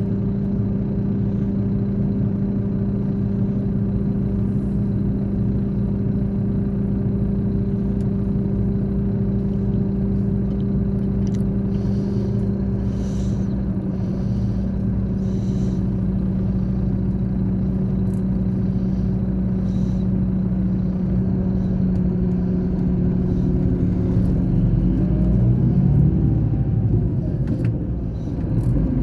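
Scania K420 coach's six-cylinder diesel engine running at a steady, even pitch. Near the end the engine note shifts and the level dips briefly.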